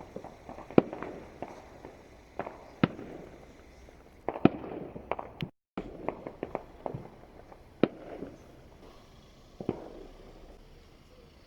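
Fireworks going off across the city: a dozen or so sharp bangs at irregular intervals, some much louder than others, thinning out near the end. The sound cuts out completely for a moment just after the middle.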